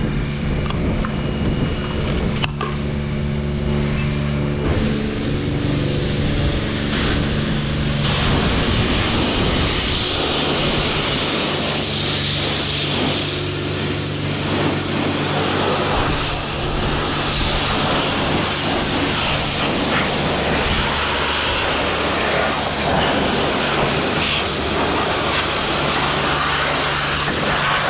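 Yamaha MT-07 parallel-twin engine running steadily under way, with rushing wind noise that grows stronger about eight seconds in.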